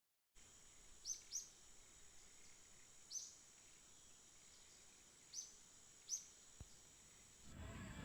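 Faint bird chirps: five short, falling calls, two close together near the start and three more spaced out, over a low hiss with a steady high-pitched whine. Music begins right at the end.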